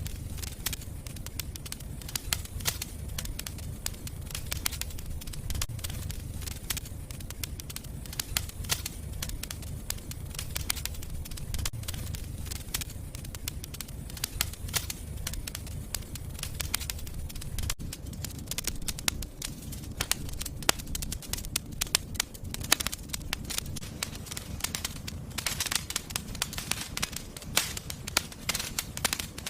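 Wood fire burning in a fireplace: a steady run of crackles and sharp pops over a low rumble of flame, the crackling growing denser near the end.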